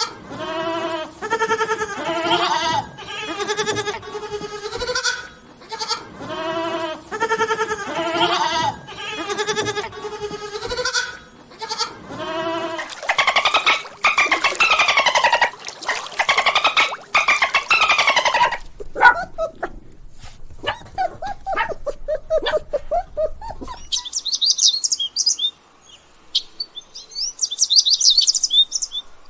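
Goats bleating over and over, one pitched call after another, for about the first twelve seconds. Then comes a higher, denser animal call for several seconds, then short quieter calls. Near the end there are high-pitched bird chirps.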